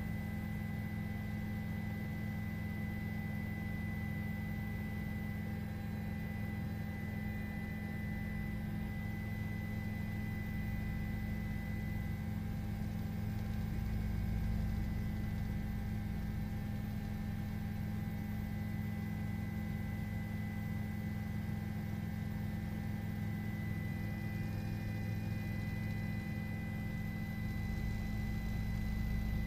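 Steady hum with several constant high tones, unchanging throughout.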